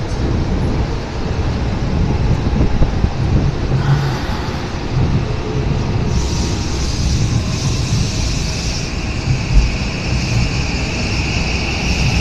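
JR West 323 series electric train pulling away, its wheels rumbling while the traction motors' whine slowly rises in pitch as it gathers speed.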